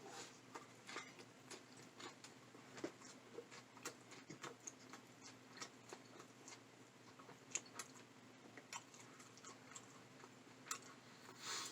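Faint open-mouthed chewing of a burger: soft irregular wet clicks and smacks.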